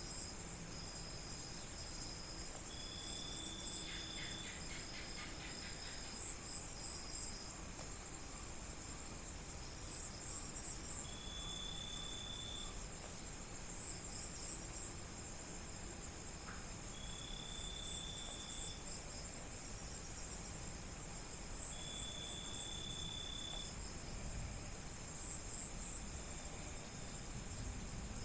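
Night chorus of crickets chirping steadily in several overlapping high-pitched layers. A clear, even note about a second and a half long stands out four times, and a short rapid rattling call comes about four seconds in.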